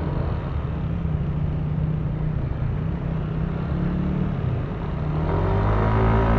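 Yamaha Aerox V3 scooter's 155 cc single-cylinder engine running on the road, with wind and road noise. About five seconds in, the engine note rises and grows louder as the scooter accelerates.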